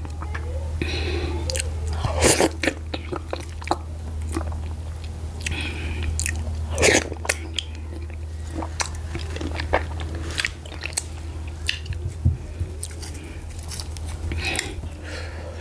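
A person chewing and eating garri fufu with slimy ogbono soup by hand, with wet mouth smacks and sticky clicks at irregular intervals over a steady low hum.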